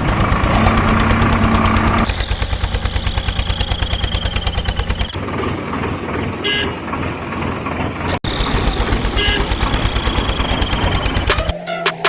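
Tractor engine running with a fast, steady chugging rhythm, cut abruptly a few times. Music with a beat comes in near the end.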